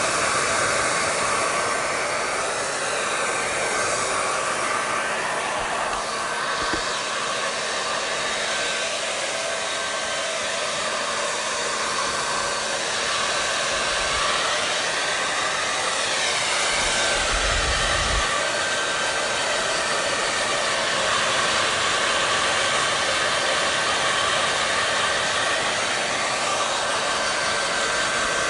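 Hair dryer blowing steadily: an even rush of air with a faint constant whine over it.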